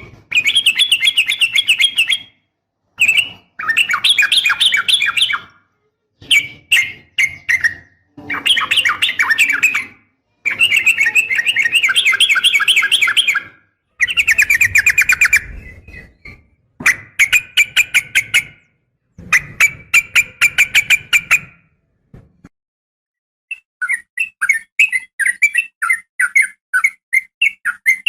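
Sooty-headed bulbul (trucukan) calls, described by the uploader as a female calling a male: rapid chattering phrases repeated one after another with brief silent gaps. They give way near the end to a run of separate short chirps.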